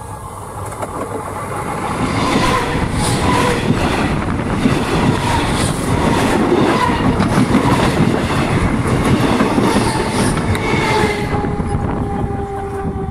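Suburban electric train running directly over the microphone between the rails: a loud rush of wheels and undercarriage with repeated clacks, building over the first two seconds and easing off after about eleven. A faint tone slowly drops in pitch as the last carriage pulls away.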